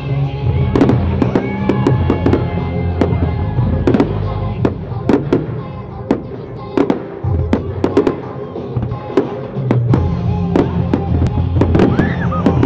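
Fireworks exploding in a rapid irregular series of sharp bangs and crackles, over music with a steady bass line.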